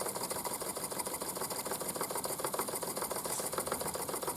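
Mamod SP8 James Watt live-steam model beam engine running, a fast, even mechanical clatter of small ticks and chuffs.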